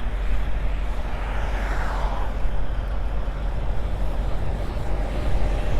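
Steady low rumble of semi trucks' diesel engines running, with a brief falling whoosh about two seconds in.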